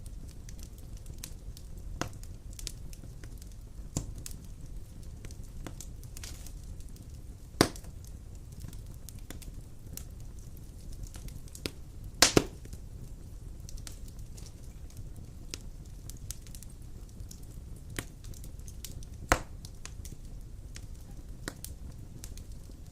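Large logs burning in a fireplace: a steady low rumble of flames with scattered crackles and occasional sharp pops. The loudest is a quick double pop about halfway through.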